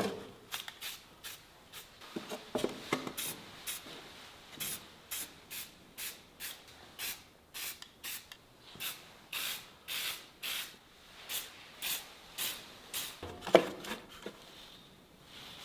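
Hand strokes rubbing and abrading the surface of a carved wooden sculpture, a dry scratchy hiss at about two strokes a second, with one sharper knock about three-quarters of the way through.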